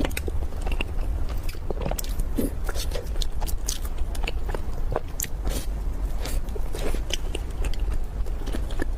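Close-miked biting and chewing of a soft chocolate-coated bun, with many small wet mouth clicks and smacks over a steady low hum.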